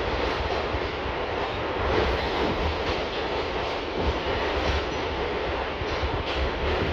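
R62 New York City subway train running at speed: a steady rumble and rush of wheels on rail.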